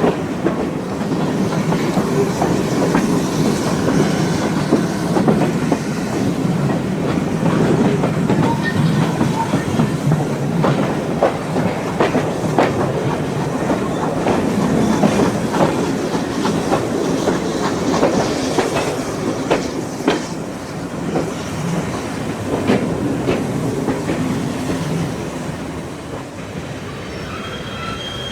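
A heritage passenger train running along the rails with a steady rumble and irregular clicks of the wheels over the track. Near the end the running quietens and a thin, high wheel squeal begins.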